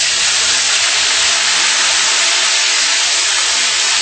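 Chopped tomatoes sizzling loudly and steadily as they hit hot oil in a frying pan.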